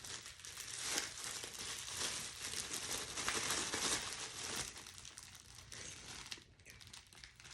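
Plastic packaging crinkling and rustling as it is handled, thinning out about four and a half seconds in to fainter handling noise.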